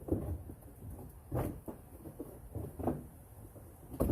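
A few dull knocks and clunks, about four spaced over a few seconds, from parts being handled and set in place.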